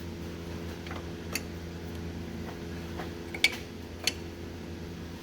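A few sharp metallic clicks and ticks from a wrench working the starter's mounting bolts, about a second and a half in, then twice near the end, over a steady hum.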